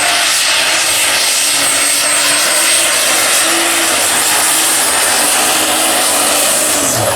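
Superstock pulling tractor's engine running hard at full throttle under load, a loud steady roar with a thin high whistle over it.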